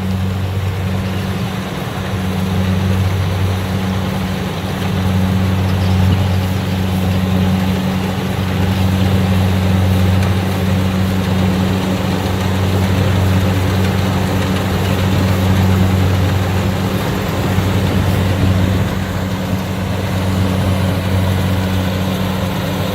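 Kubota DC60 rice combine harvester running, its diesel engine a steady low drone under a dense mechanical rattle and rush, growing a little louder for a stretch in the middle.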